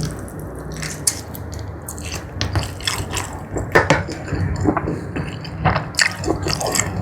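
Close-miked eating sounds: chewing spicy jumbo squid, with irregular wet clicks and smacks from the mouth.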